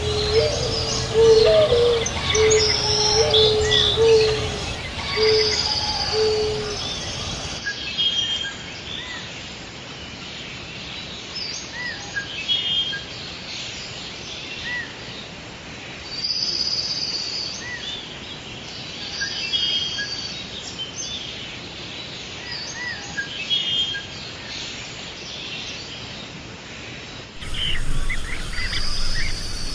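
Small wild birds chirping and calling, with a low call repeated about seven times in quick succession during the first seven seconds. The background changes abruptly twice, about eight seconds in and near the end, as between spliced recordings.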